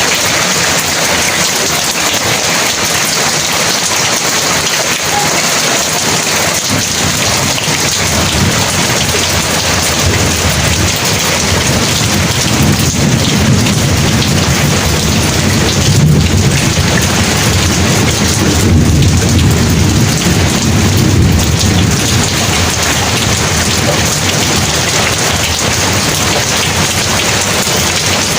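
Heavy rain pouring steadily, with a long low rumble of thunder that builds about eight seconds in, swells twice, and dies away after about twenty seconds.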